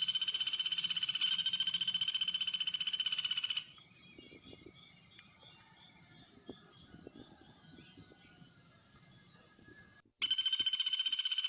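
A steady, rapidly pulsing high-pitched animal trill. It stops about four seconds in, leaving a fainter steady high hum with a few soft ticks, and starts again abruptly near the end.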